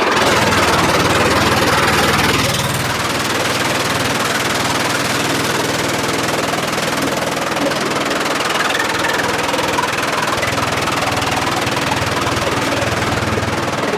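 Sawmill machinery running steadily with an engine-like hum. A louder rushing noise in the first couple of seconds eases off.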